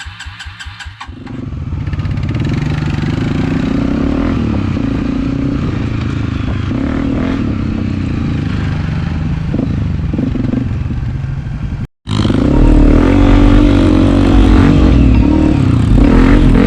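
Dirt bike engine running: quick even pulses for the first second, then a steady run. It breaks off abruptly just before twelve seconds in and comes back louder.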